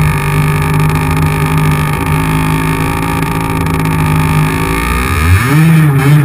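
50cc two-stroke motorcycle engine running at steady revs while riding, heard close up from a camera mounted on the bike. About five seconds in, the revs dip and climb again.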